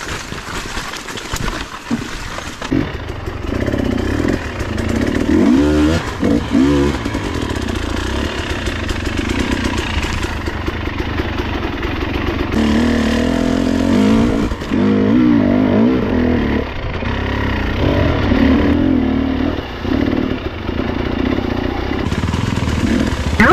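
Husqvarna TE 300i two-stroke dirt bike engine running under load on a trail, the revs rising and falling again and again as the throttle is worked, with clatter from the bike over rough ground.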